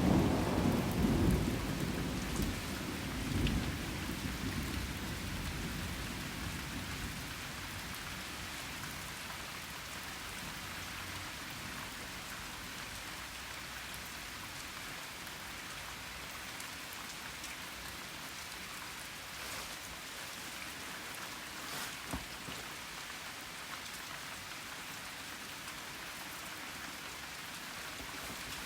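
A thunder rumble dying away over the first few seconds, then steady rain falling on surfaces.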